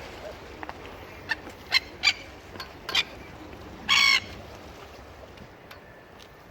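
A seagull caught on a fishing line squawking: four short harsh calls, then a longer, louder call about four seconds in.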